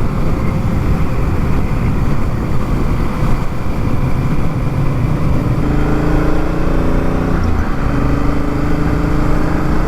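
Honda Africa Twin's parallel-twin engine running at road speed under a steady rush of wind noise. The engine's note stands out more clearly from about halfway through and shifts slightly in pitch a little later.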